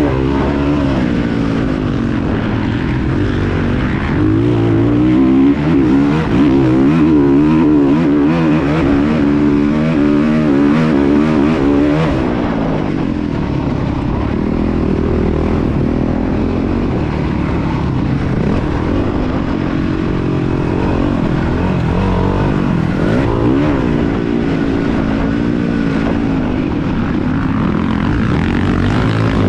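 Motocross dirt bike engines revving hard, their pitch rising and falling again and again with throttle and gear changes.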